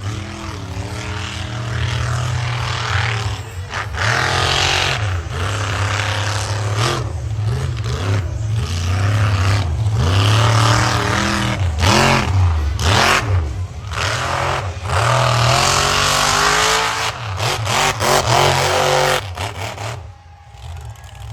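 Monster truck engine revving hard again and again, its pitch climbing and falling, with short sharp cuts as the throttle is lifted; it drops away about a second before the end.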